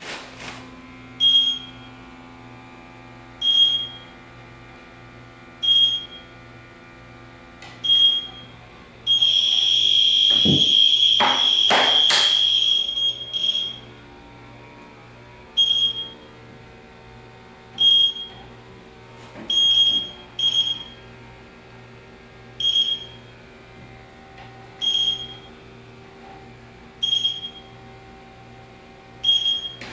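Electronic refrigerant leak detector beeping: short high beeps about every two seconds while it searches. About nine seconds in, it switches to a continuous loud alarm tone for about four seconds, signalling a refrigerant indication, then returns to slow beeps. Faint background music plays underneath.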